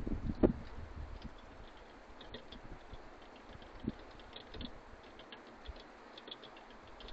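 Faint, irregular light ticking and clicking of small birds pecking at the feeder, with a couple of soft knocks.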